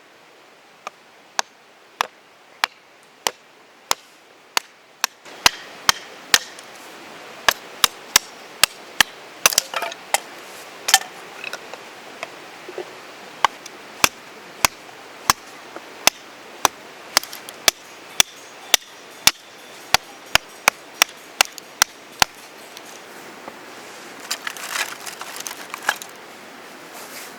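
Knife chopping on a cutting board: a long run of sharp strokes, steady at first, then quicker and uneven, stopping about twenty-two seconds in. A short rustle follows near the end.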